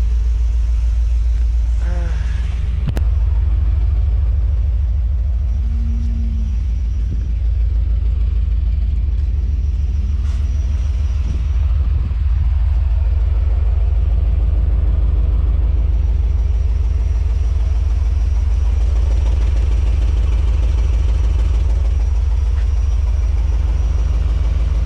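1994 GMC C3500HD truck engine idling with a steady low rumble while its drive belt is torn. There is a single sharp click about three seconds in.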